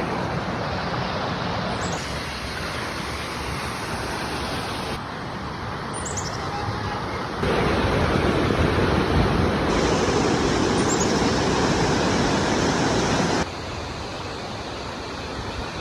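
Waterfall: rushing, falling water as a steady wash of noise. It changes level abruptly several times and is loudest through the middle and later part.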